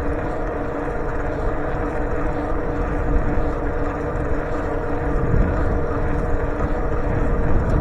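Steady wind and road rumble on the microphone of a rider on the move, with a constant hum.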